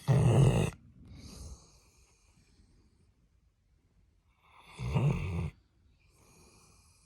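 Old Labrador retriever snoring in its sleep: two loud snores, one at the very start and one about five seconds in, with a softer breath just after the first.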